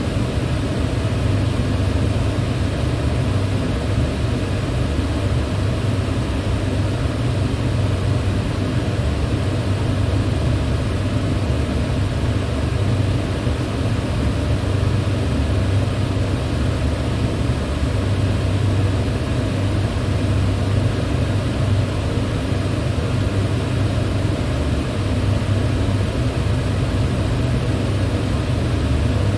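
Electric fan running steadily: a constant low hum with an even airy whoosh of moving air over it.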